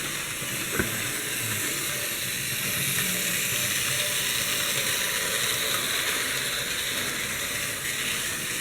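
Antique Märklin model locomotive running on its metal track, a steady hissing whir of motor and wheels, with a small click about a second in. The locomotive is labouring to pull an added car.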